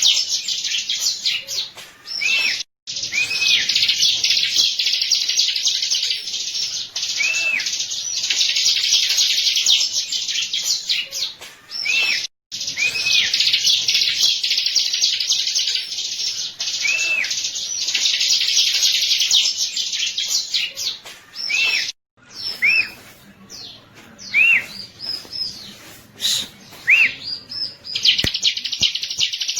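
Bar-winged prinia (ciblek) singing: long runs of rapid, high chattering trills broken by short arched notes. The song stops abruptly a few times, then picks up again.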